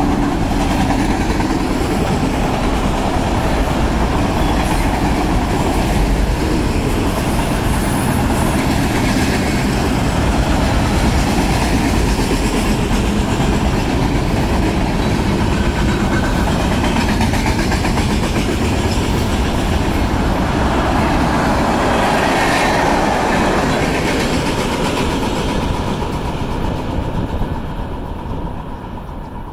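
Freight cars of a manifest train rolling past close by: a steady rumble and clatter of steel wheels on the rails. It fades near the end as the last cars go by.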